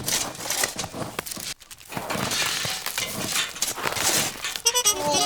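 Gritty crunching and scraping of soil and small stones with scattered clicks, as a miniature plough is worked through the dirt. Music comes in near the end.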